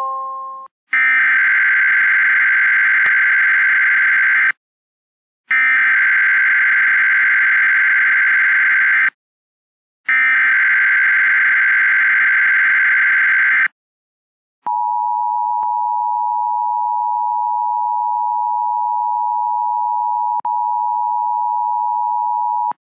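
Emergency Alert System SAME header: three harsh digital data bursts of about three and a half seconds each, separated by short silences. Then the EAS two-tone attention signal holds steady for about eight seconds, announcing a severe thunderstorm watch broadcast on FM radio.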